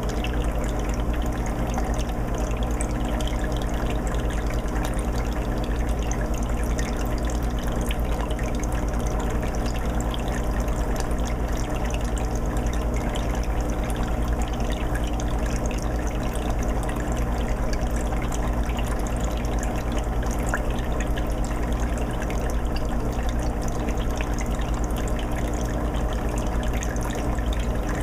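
Water filter on a 20-gallon aquarium: a steady trickle and bubbling of water running without a break, over a steady low hum.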